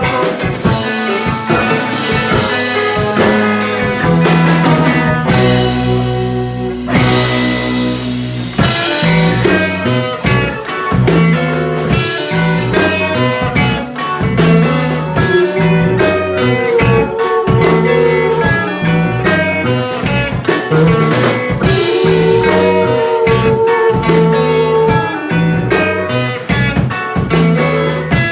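Psychedelic rock band playing an instrumental jam on electric guitars, bass and drum kit. About five seconds in the drums stop for a few seconds under a held chord, then the full band comes back in, with long held lead notes later on.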